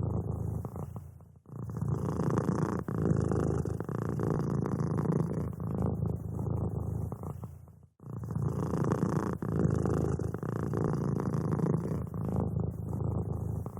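Domestic cat purring steadily in a continuous low, rough rumble, close up. It drops out briefly about a second and a half in and again about eight seconds in.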